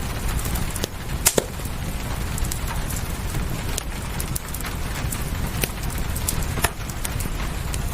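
Wood fire crackling, with scattered sharp pops, a couple of louder ones about a second in and near the end, over a steady low rumble of rain.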